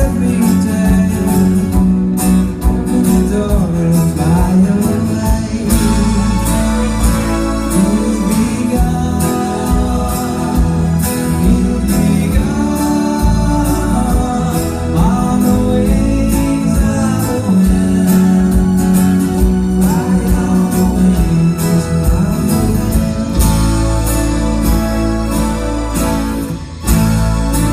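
A band playing a song live, with guitar and singing over a steady beat.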